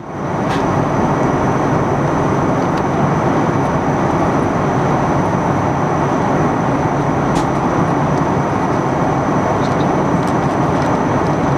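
Steady cabin noise of an Airbus A310-300 airliner in flight: the engines and airflow make a constant rush, with a thin high tone held steadily above it and a few faint ticks.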